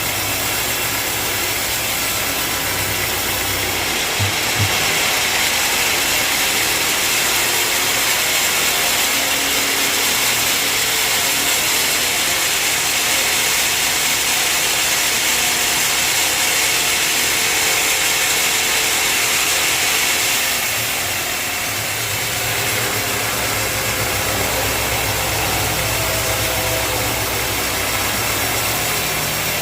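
A sawmill's bandsaw machinery running steadily, with two short knocks about four seconds in. It grows louder and hissier until about twenty seconds in, then eases back to a steady running hum.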